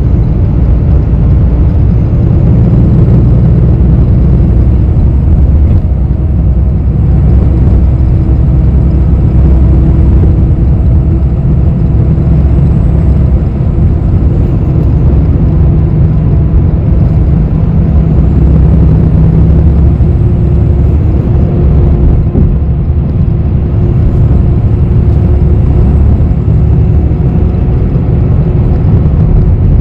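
Interior of a moving city bus: a steady low rumble of engine and road noise, with the engine hum shifting slightly in pitch. A faint high whine rises and falls a few times.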